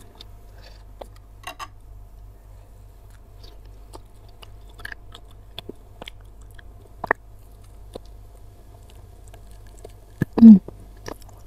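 Close-miked chewing of tough beef rib meat, with sparse short wet mouth clicks. Near the end she bites meat off the rib bone, and there is one brief hum of the voice.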